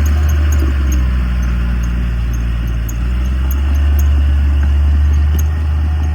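Heavy earthmoving machine's diesel engine running steadily with a deep low hum, a little louder about four seconds in.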